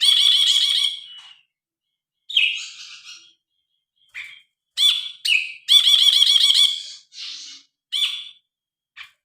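Brinji kelabu bulbul singing loud phrases of rapid, repeated warbled notes, several bursts with short pauses between them. The longest and loudest phrases come at the start and again from about the middle.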